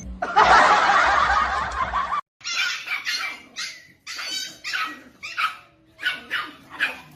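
A dog giving a rapid run of about a dozen short, high barks, after a burst of rushing noise in the first two seconds.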